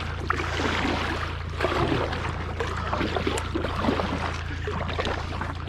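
A paddle dipping and pulling through river water as a small paddle craft is moved along, with light splashing and trickling, over a steady low hum.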